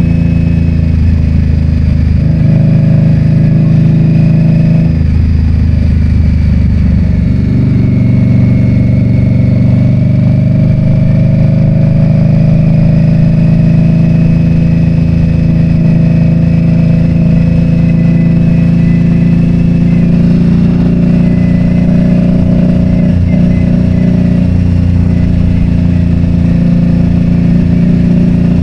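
Motorcycle engine running while being ridden, its pitch shifting a few times in the first several seconds, then holding fairly steady.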